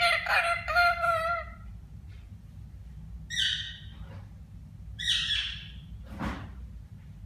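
Parrot vocalizing: a drawn-out pitched call in the first second and a half, then two short harsh squawks about three and five seconds in. A brief noisy whoosh follows about six seconds in.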